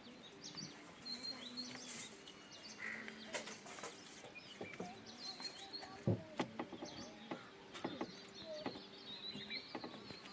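Small birds chirping and twittering in many short calls, with scattered clicks and knocks; a louder knock about six seconds in.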